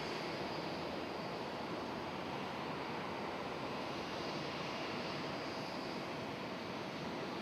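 Steady rushing roar of a Boeing 787's jet engines, with a faint high whine held on top.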